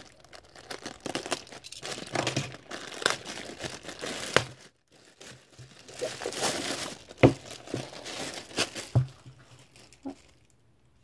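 A delivery package being torn open by hand: the wrapping crinkles and rips in irregular bursts, with a few sharp snaps.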